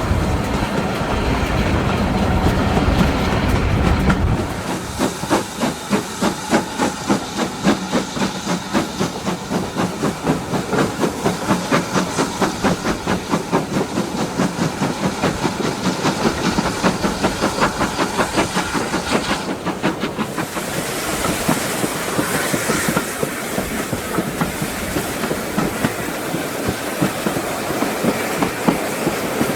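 Steam locomotive No.9351, a GWR 2-6-0, working hard, heard from its train: a heavy rumble for the first few seconds, then a steady exhaust beat of about two to three chuffs a second. In the last third the beats soften under a steady hiss and running noise.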